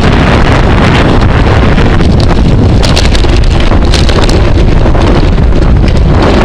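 Heavy wind buffeting the microphone of a camera riding along in a bicycle race, a loud, steady low rumble.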